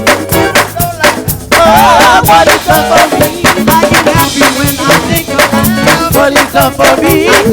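Live gospel praise band playing with singers: a busy drum-kit groove under wavering vocal lines, with a short drop in the band about a second and a half in before it comes back in full.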